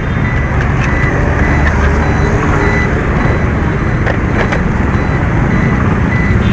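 Automatic motor scooter being ridden: engine running under heavy wind and road rumble on the microphone, with a high beep repeating at regular intervals.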